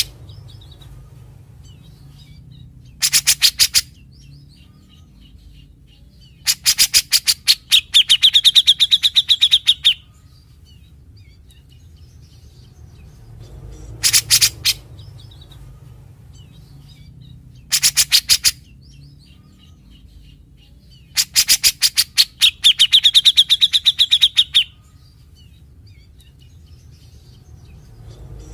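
Grey-cheeked bulbul (cucak jenggot) singing its harsh rasping 'besetan': five loud bursts of rapid rattling notes. The two longer bursts, about seven seconds in and about twenty-one seconds in, run on into a ringing trill. A steady low hum lies underneath.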